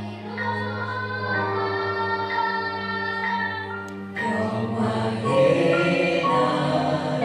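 A church praise choir singing a worship song in sustained chords, growing fuller and louder about four seconds in.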